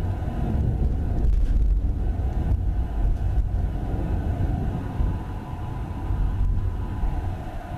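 Thunder: a deep rolling rumble that breaks in suddenly, swells about two seconds in, then slowly fades.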